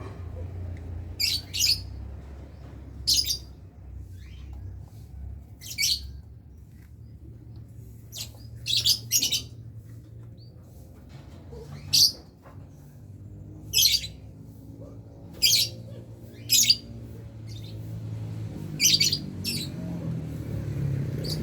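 Lovebirds giving short, high, sharp calls every second or two, some in quick pairs, over a steady low hum.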